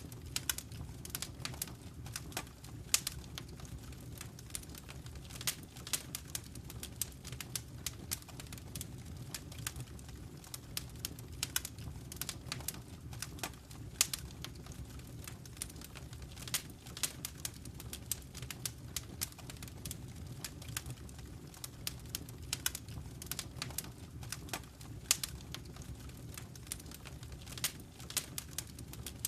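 Wood fire burning in a fireplace: irregular crackles and snaps, several a second with a few louder pops, over a low steady rumble of the flames.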